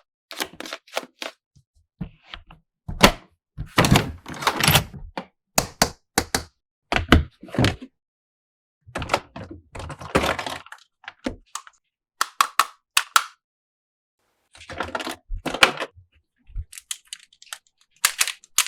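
Doctor-playset toy pieces being unboxed and handled: irregular clusters of sharp clicks, taps and knocks with short rustles, broken by short silences.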